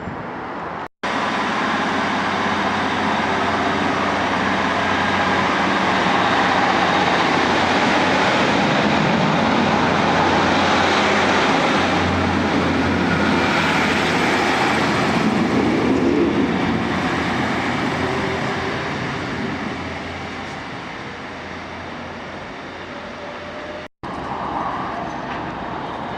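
A train running past: a rumble that builds, holds for several seconds and then fades away. Short breaks about a second in and near the end mark cuts to other recordings.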